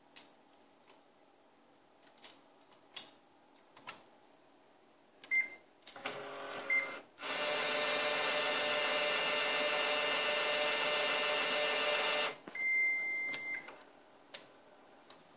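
HP LaserJet Pro MFP M127fw laser multifunction printer starting a copy job. After a few light clicks there are two short control-panel beeps, then its motors start up and run steadily for about five seconds. They stop abruptly and are followed by one longer beep.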